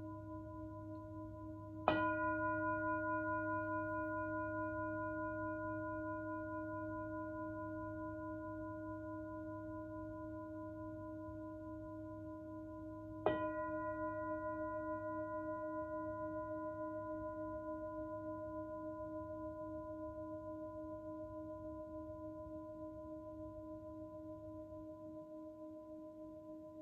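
Himalayan singing bowl struck twice, about eleven seconds apart. Each strike rings on as a long, slowly pulsing tone that fades gradually.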